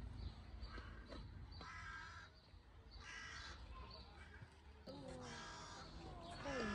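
Harsh bird calls, about five of them, repeated roughly every second and a half over a low rumble.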